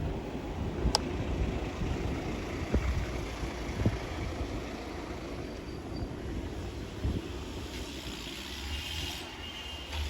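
Wind rushing over the microphone with low road rumble while riding a motorbike, broken by a few sharp knocks, and a faint high tone near the end.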